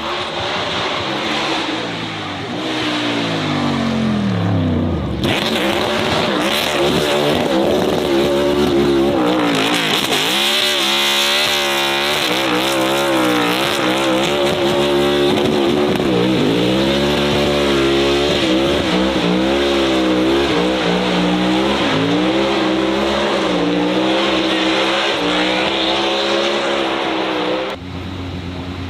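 Racing car engines at high revs: one falls in pitch over the first few seconds, then after an abrupt change another engine revs up and down again and again under hard throttle, cutting off abruptly near the end.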